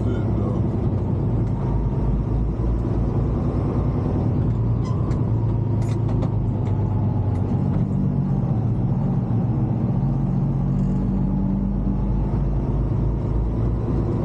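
Semi-truck diesel engine running under way, a steady low drone whose pitch shifts a little about halfway through.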